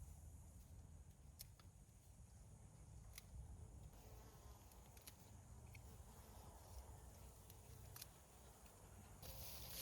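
Near silence: faint background tone with a low rumble and a few sparse soft ticks, and a hiss that comes up near the end.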